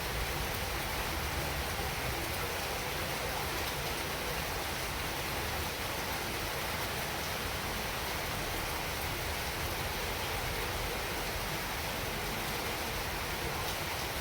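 Heavy rain falling steadily, an even hiss with a few faint scattered drop ticks.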